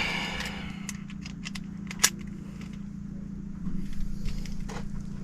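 Scattered light clicks and taps of tools and sheet-metal ductwork being handled while a zone damper is worked loose from the plenum, with one sharper click about two seconds in. A steady low hum runs underneath.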